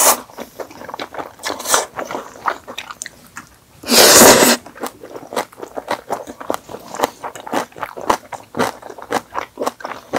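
Close-miked chewing, smacking and crunching of sauce-coated fried chicken and noodles, with one loud slurp about four seconds in.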